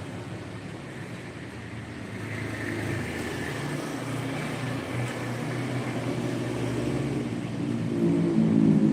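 A motor vehicle running and growing louder as it approaches.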